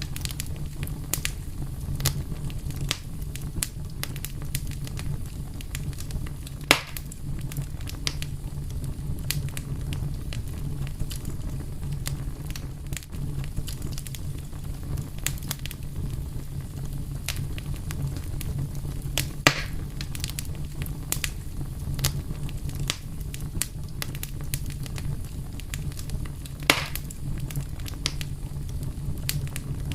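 Fire crackling, with a steady low rumble under frequent small pops and three louder snaps: about a quarter of the way in, about two-thirds in, and near the end.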